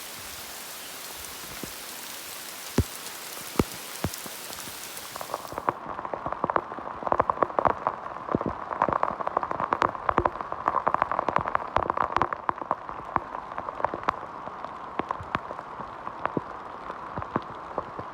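Heavy rain falling, with the sharp hits of individual drops striking close by. About five seconds in, the steady hiss drops away suddenly and dense, louder drop hits take over.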